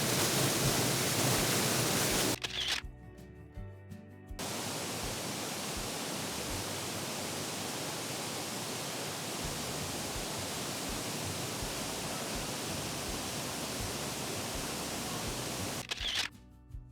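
Steady rushing of a waterfall. It drops out briefly about three seconds in and again near the end, leaving soft background music.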